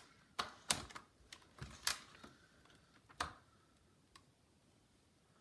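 A few sharp plastic clicks and taps from working a laptop's screen bezel and its screw by hand, about five within the first three and a half seconds and then a faint last one.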